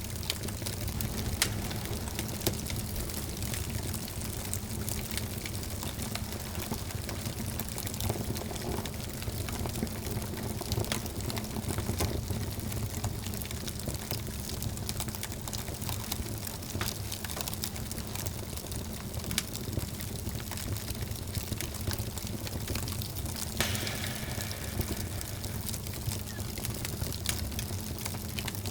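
Wood fire in a fireplace burning steadily, crackling with irregular small snaps over a low rumble of flames, with a brief hiss near the end.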